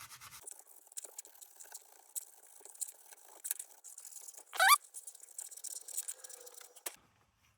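Steel wool scrubbing a lantern's metal crown: faint, quick scratchy rubbing, with one short rising squeak about halfway through. The sound cuts off abruptly near the end.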